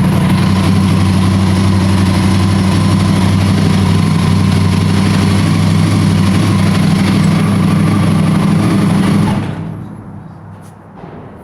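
Yamaha R1 'big bang' crossplane inline-four engine idling steadily, then switched off about nine seconds in, its sound dying away within about a second.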